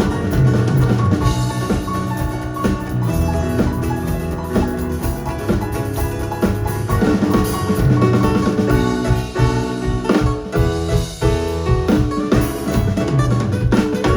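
A live band playing a song with a drum kit keeping the beat under sustained pitched instruments. Around ten seconds in there is a short, choppier stretch of drum hits.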